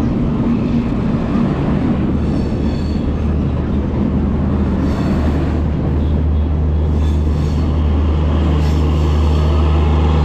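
Diesel-hauled express passenger train running past, its locomotive engine giving a steady low drone that grows slightly louder near the end, with faint high wheel squeals twice.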